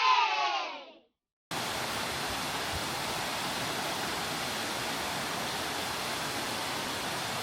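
Cheering children and crowd fading out in the first second, then, after a brief gap, a steady, even rush of falling water that starts and stops abruptly.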